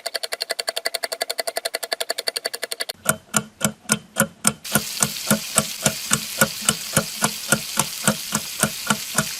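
Rhythmic percussive beat: fast, even ticking that changes about three seconds in to a slower beat of sharp strikes with low thumps, about three a second, with a steady hiss under it from about five seconds in.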